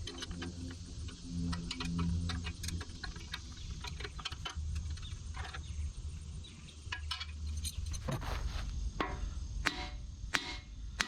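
Metal clicks, taps and knocks of hand tools working on a backhoe bucket's pins and bolts, sharper and louder near the end, over a low steady hum.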